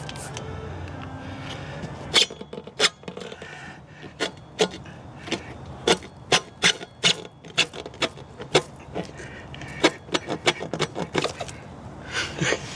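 Work on a motorcycle tire and rim: a long, irregular series of sharp clicks and snaps, about two a second, starting about two seconds in.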